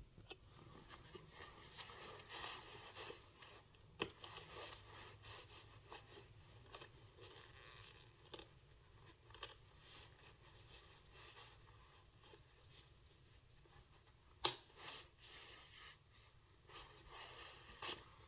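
Handling noises of a leather pocket sheath holding a knife: on-and-off rubbing, scraping and clothing rustle as it is worked into a pocket. A sharp knock late on is the loudest sound, with a smaller one about four seconds in.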